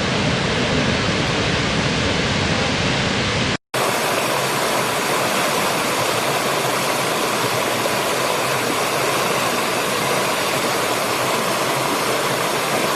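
Steady rush of falling water from a waterfall. It breaks off briefly about three and a half seconds in and resumes with less low rumble, as a second waterfall recording.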